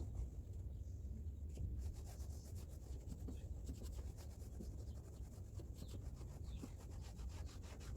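Faint rubbing and scratching over a steady low rumble, with a run of quick scratches about two seconds in.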